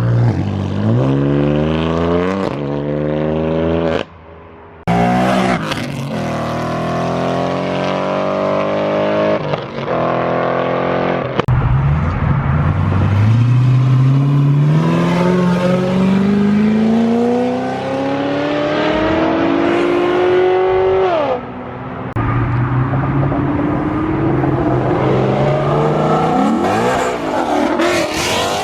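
Several cars accelerating hard one after another, their engine notes rising in pitch again and again as they rev up through the gears. The sound breaks off suddenly a few times and starts again with another car.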